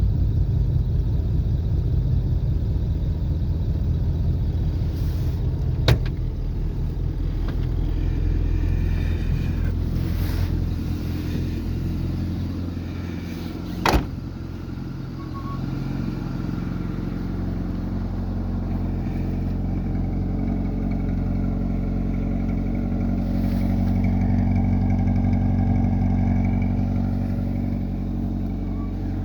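Yugo Koral 65's 1.3-litre four-cylinder engine running steadily after a cold start. Two sharp clicks cut across it, one about six seconds in and one about fourteen seconds in, and the engine note dips briefly just after the second.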